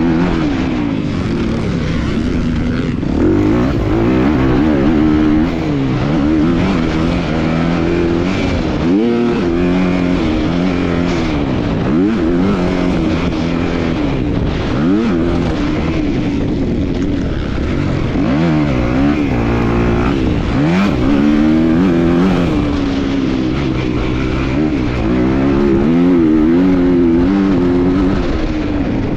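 A 250cc motocross bike's engine revving hard, its pitch climbing and dropping over and over every second or two as the throttle is opened and closed and the gears are shifted.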